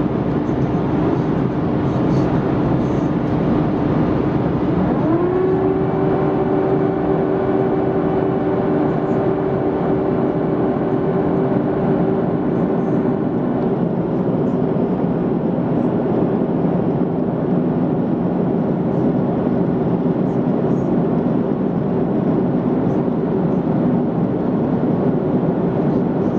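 Cabin noise inside an Airbus A330-200 on approach: a steady rush of engines and airflow with an engine hum that rises in pitch about five seconds in, as the engines spool up, and then holds steady.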